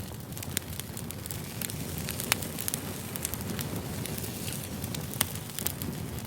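Wood fire crackling: a steady low rumble of burning logs with frequent sharp pops and snaps. The loudest pops come about two seconds in and again near five seconds.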